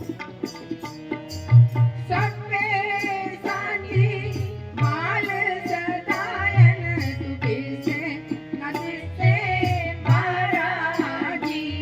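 Gurbani kirtan music: tabla plays a steady rhythm with deep bass strokes under held drone notes, and about two seconds in a wavering melody with vibrato comes in over it.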